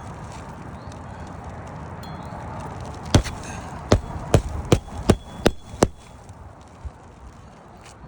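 Hammer driving a roofing nail into an asphalt shingle: about seven quick, sharp strikes in a row, two or three a second, in the middle of the stretch.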